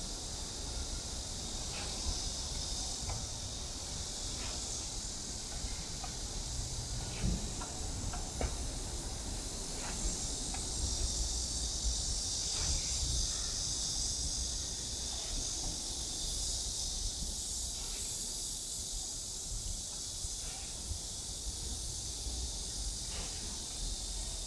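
Dense chorus of cicadas buzzing steadily, over a low rumble.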